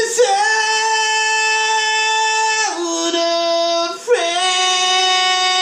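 High, wordless singing in long held notes. The first note slides down to a lower one about two and a half seconds in, there is a brief break about four seconds in, and then another long note is held.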